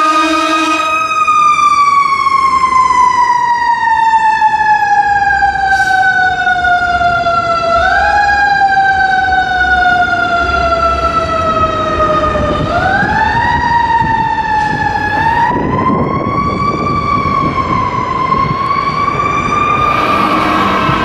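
Fire engine siren winding slowly down in pitch, kicked back up briefly twice, then rising again and holding a high wail. A steady low horn blast stops about a second in and starts again near the end, over the truck's engine rumble.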